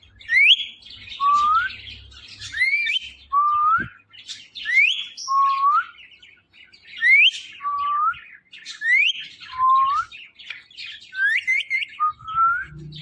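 Pet ring-necked parakeet whistling a two-note phrase, a rising high note followed by a lower rising note, six times about every two seconds, with soft scratchy chattering between the whistles.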